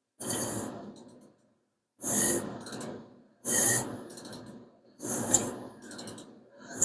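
Four hard, rasping exhalations, one about every one and a half seconds, each sudden and then fading: a man straining on a ratchet to turn the crankshaft of a 5.7 Hemi that will not move.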